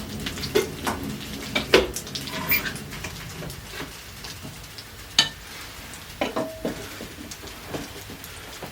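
Scattered clinks, taps and scrapes of kitchenware such as dishes, pots and utensils, a few ringing briefly, over a steady low hiss.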